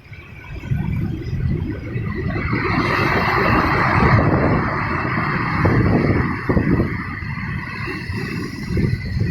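Ocean waves breaking on the shore: a low, steady rumble of surf, with the wash of a wave swelling about two to three seconds in and easing off a few seconds later.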